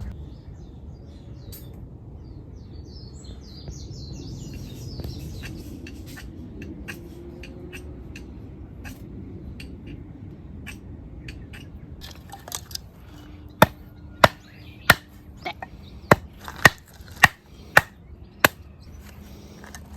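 Faint outdoor background with a few light ticks, then about eight sharp knocks in quick succession in the second half, roughly one every half second to second.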